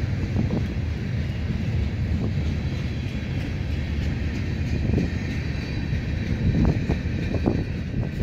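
Freight cars of a mixed freight train rolling past: a steady low rumble of steel wheels on rail, with a few short clunks, several of them close together about two thirds of the way through.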